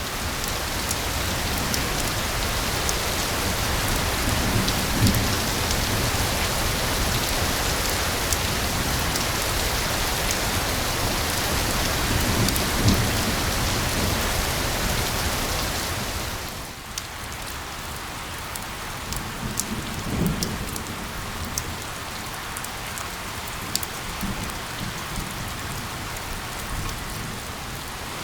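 Steady heavy rain hissing and pattering, with sharp individual drops, and low rumbles of thunder a few times. About two-thirds of the way through, the rain drops to a quieter level.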